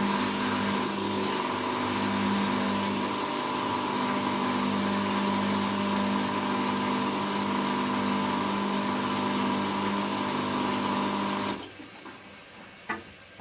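Hoover washing machine spinning its drum on the spin cycle, a steady motor whine with the load running unbalanced. About eleven and a half seconds in the motor cuts out suddenly as the machine abandons the spin because of the imbalance, followed by a short click.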